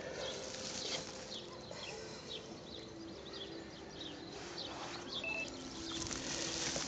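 Birds chirping: many short, quick, falling chirps, over a faint steady low hum.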